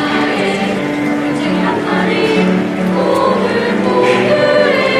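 A middle-school choir singing a Korean children's song, the voices moving through short held notes.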